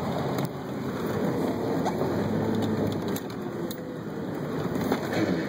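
1990 Jeep Cherokee driving off-road in the rain: a steady noise of engine, tyres on wet ground and rain, with a faint engine tone that rises and falls and a few brief knocks.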